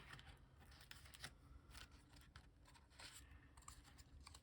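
Near silence, with faint rustles and light ticks of paper and cardstock being handled and shuffled.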